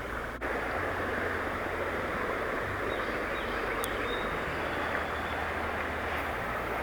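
Steady rushing of river water flowing over a shallow riffle, an even hiss with a low rumble under it, with one light click about four seconds in.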